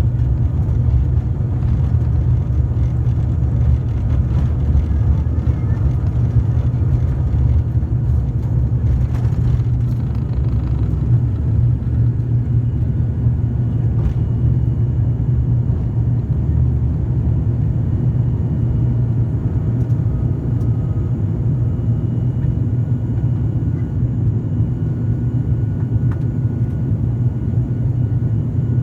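Cabin noise of a turboprop airliner's engines and propellers: a loud, steady low drone, with faint higher steady tones coming in about halfway through.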